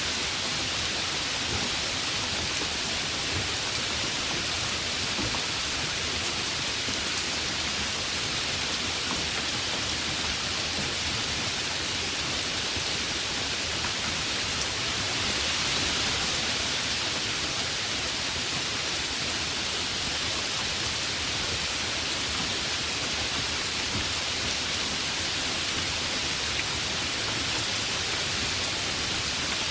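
Heavy rain falling steadily, a dense even hiss, a little louder about halfway through.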